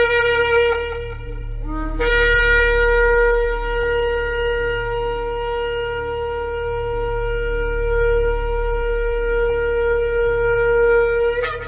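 Shofar blown in steady blasts: one blast ends about a second in, then after a brief lower note comes one long held blast of about nine seconds that breaks upward at its end. A steady low hum lies underneath.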